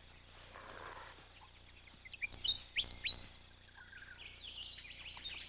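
Birds calling about two seconds in: a quick cluster of short, sharp whistles sliding down in pitch, then softer chirps, over a steady high insect trill.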